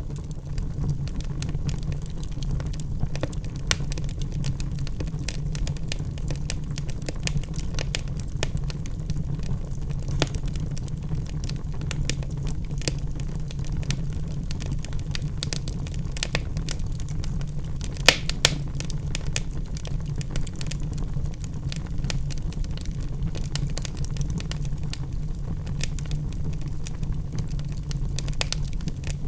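Wood logs burning in a fireplace: a steady low rumble of flames with frequent small crackles and snaps, and one louder pop a little over halfway through.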